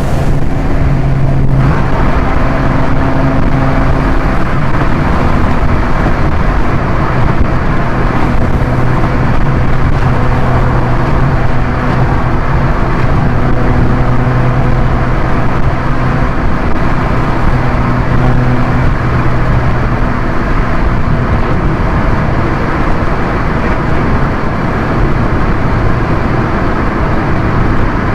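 A Proton Inspira's 1.8-litre four-cylinder engine droning at steady revs under road and tyre noise as the car drives at speed. The engine note eases off a little after about twenty seconds.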